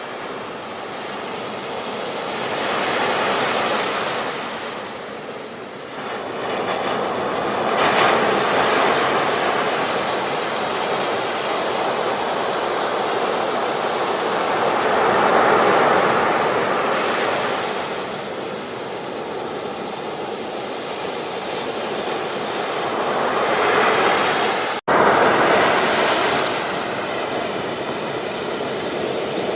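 Ocean waves breaking on a beach, the surf rising in a swell every few seconds and washing back. The sound drops out for an instant near the end.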